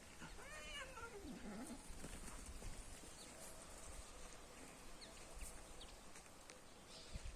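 A cat meows once, a single call that rises and falls in pitch during the first second and a half. Faint scattered clicks follow.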